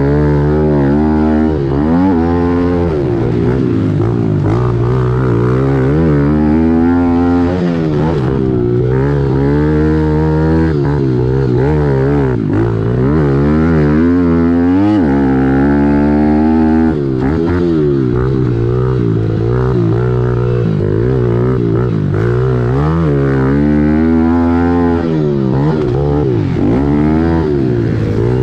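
Kawasaki KLX110L pit bike's small single-cylinder four-stroke engine heard from onboard, revving up and dropping back over and over as the rider works the throttle and shifts, with a steady low drone underneath.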